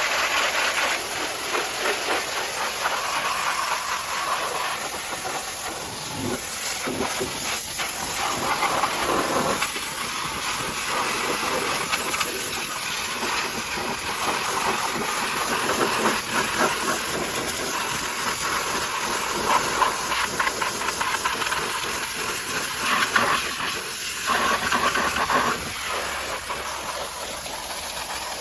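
High-pressure washer spraying water onto a vehicle, a steady loud hiss that swells and dips as the jet moves over the surface.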